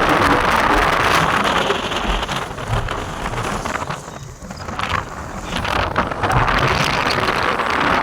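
Heavy rain falling, a dense steady hiss that eases for a moment about halfway through and then comes back at full strength.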